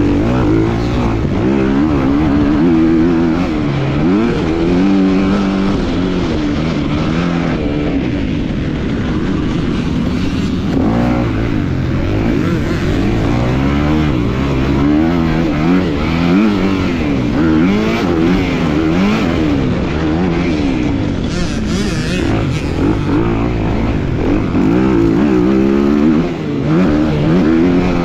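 250-class motocross bike engine revving hard and continuously, its pitch climbing and dropping every second or two as the throttle is worked through the gears while racing.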